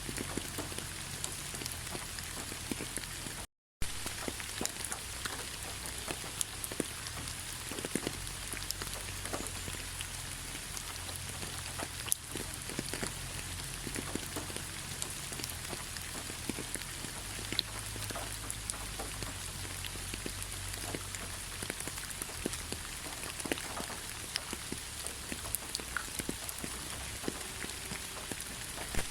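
Steady rain falling, with many individual drops tapping on a surface over a constant hiss. About three and a half seconds in, the sound cuts out completely for a moment.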